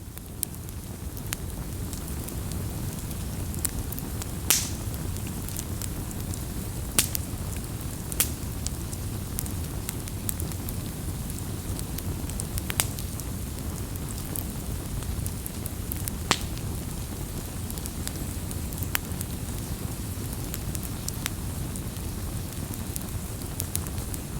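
Campfire burning, with a steady low rush of flames and sharp crackles and pops from the burning wood scattered every second or two, a few of them louder. It fades in over the first second.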